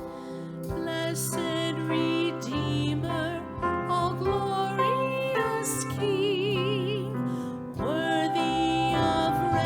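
Church praise team singing a slow worship song over instrumental accompaniment, the voices holding long notes with vibrato.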